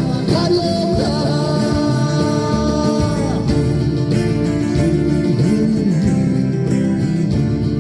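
Live band with guitar playing a Korean pop ballad, the singer holding a long note that ends a few seconds in, then the guitar and band play on without voice.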